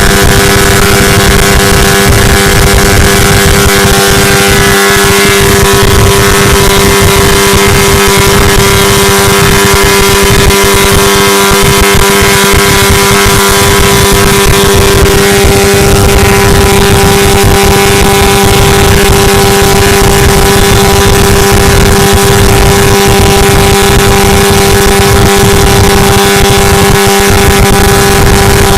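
Engine held at high revs, running loud with a steady, unchanging pitch.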